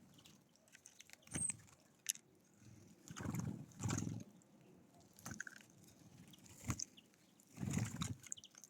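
Birds at a feeder: a few low, dull knocks and scrabbling sounds, twice close together near the middle and once near the end, with scattered sharp taps and faint high chirps.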